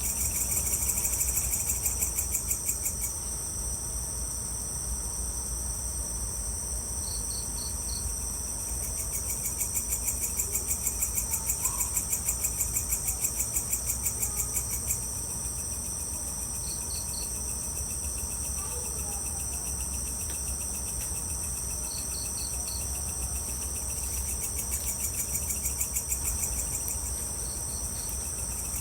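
Evening chorus of crickets and other insects: a steady, rapid high-pitched trilling, with a lower pulsing trill that comes and goes and short groups of three or four chirps every several seconds. A steady low rumble runs underneath.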